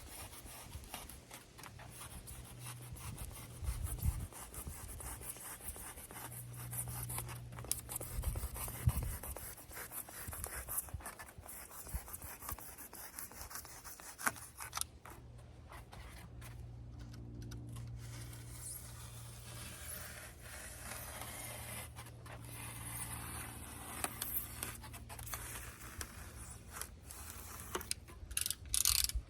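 Irregular rubbing and scraping with scattered light clicks and knocks, as of materials being handled and worked by hand, over a steady low hum.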